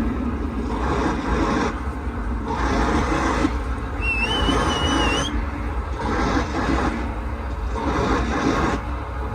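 Dark techno at about 136 BPM played loud over a sound system, heavy in the bass with a rough, noisy upper range. A wavering high whistle sounds for about a second near the middle.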